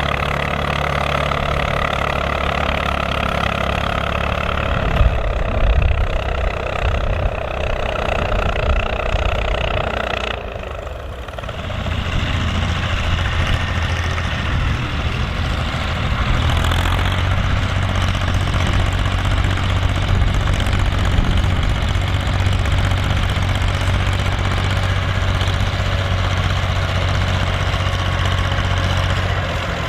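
Volvo BM tractor's diesel engine running steadily. About ten seconds in the level dips briefly, then a steady, deeper engine hum returns.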